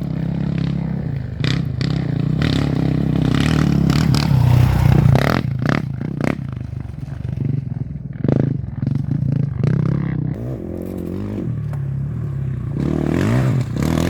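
A motor vehicle engine running steadily with shifts in pitch, over repeated clattering and scraping knocks like gravel or a rough dirt track.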